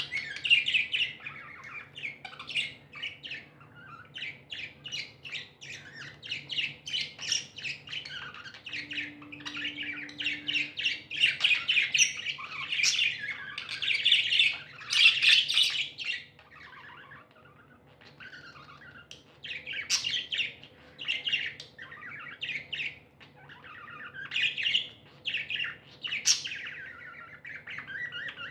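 Pet budgies chirping in rapid, continuous chatter, which thins to scattered calls with short pauses after about 16 seconds.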